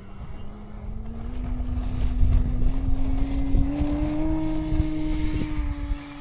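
Electric motor and propeller of a large E-flite Carbon-Z Cessna 150 RC plane in flight, a steady hum that rises in pitch and grows louder over the first few seconds, then holds. Wind rumbles on the microphone.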